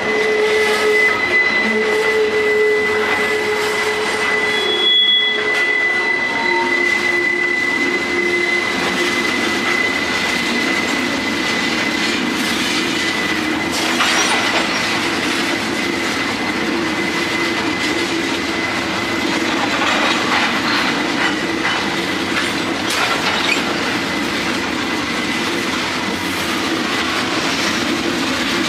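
Freight train cars, tank cars and boxcars, rolling past on steel wheels. A steady high-pitched wheel squeal fades out about twelve seconds in, over a lower squeal and the clickety-clack of wheels over the rail joints.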